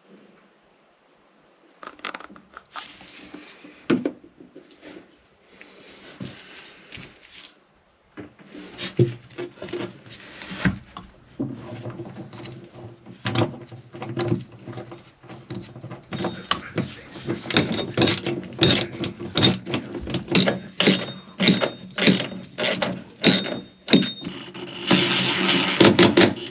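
Drive shaft of a Yamaha VX110 jet ski being worked into place by hand: scattered knocks and scrapes, then a long run of quick, sharp metal knocks and clunks over a steady low hum.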